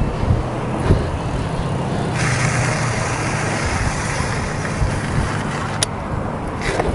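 Motor vehicle engine running with road noise, a steady low hum under a hiss that grows brighter about two seconds in, with a single sharp click near the end.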